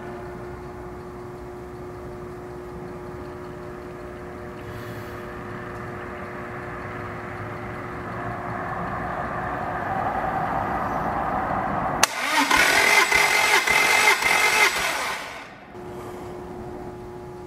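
Toyota 3S-GE BEAMS four-cylinder engine cranked over on its starter for a compression test: a loud rhythmic cranking burst about twelve seconds in, lasting about three and a half seconds. A steady hum plays before and after it.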